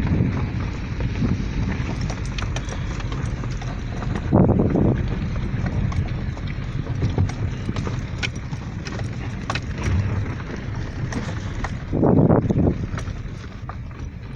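Vehicle driving on a rough gravel road: a steady low rumble with stones ticking, and two heavier jolts, about four seconds in and about twelve seconds in.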